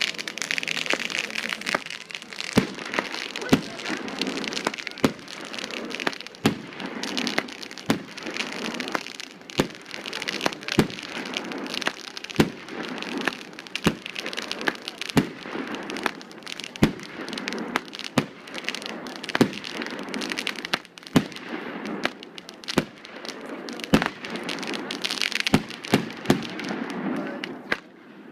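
Aerial fireworks bursting overhead: a long series of sharp bangs, roughly one a second, over a continuous hiss.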